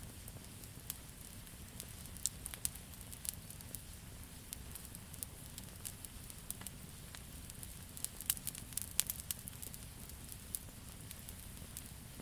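Campfire of burning wood crackling: irregular sharp pops and snaps over a steady low rumble of the flames, with a busier cluster of pops about two seconds in and again about eight seconds in.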